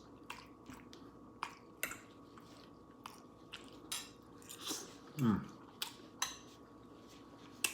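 Close-up eating sounds: chewing, with scattered sharp wet mouth clicks and light clinks of cutlery, and a short falling hum about five seconds in.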